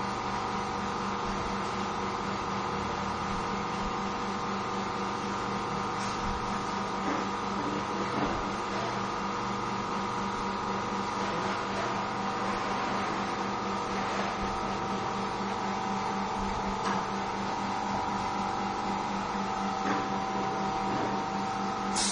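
A machine running with a steady hum, a few faint ticks over it.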